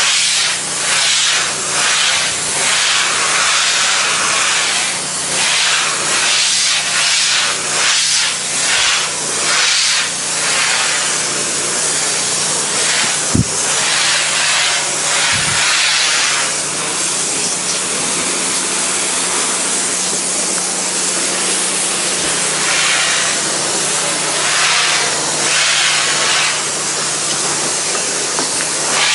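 Pressure washer spraying a painted wood deck at low pressure, a loud hiss that swells and fades as the wand is swept back and forth, over the steady hum of the washer's motor. A single sharp knock about halfway through.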